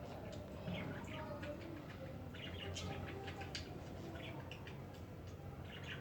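Small birds chirping: many short, quick chirps, irregular and overlapping, over a steady low rumble of background noise.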